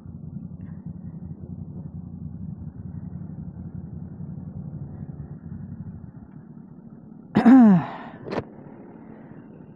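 Motorcycle engines idling with a steady low rumble. About seven seconds in comes one loud, short sound that falls in pitch, followed by a sharp click.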